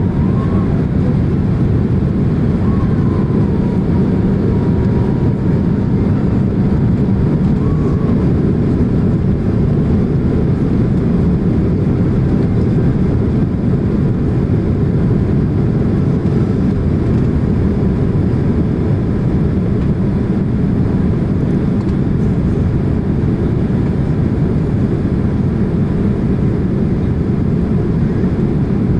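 Steady, loud cabin noise of a Boeing 767-300ER in flight: the deep, even drone of engines and airflow through the fuselage.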